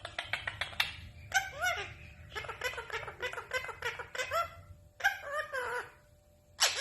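A pet parrot vocalising: a quick run of clicking chatter, then several bouts of laugh-like calls with bending pitch.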